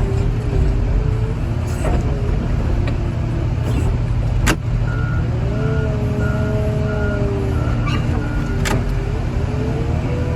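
Heavy diesel machinery running under load with a low steady drone and a whine that rises and falls. A reversing alarm beeps about twice a second for a few seconds midway, and two sharp clanks stand out, one near the middle and one near the end.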